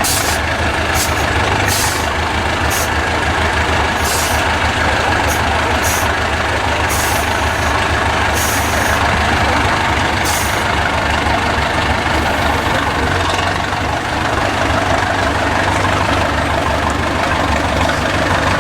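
IFA W50 truck's engine running steadily. Short bursts of hissing come several times in the first ten seconds.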